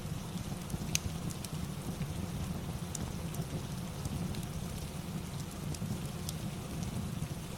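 Steady rain ambience with a constant low rumble, and a few sharp crackles from a wood fire in a fireplace, the clearest about one, three and six seconds in.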